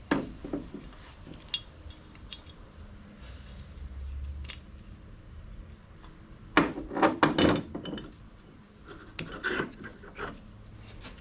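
Metal parts and tools being handled, clinking and knocking in scattered strokes, with a cluster of louder clanks about six and a half to seven and a half seconds in and a few more around nine to ten seconds.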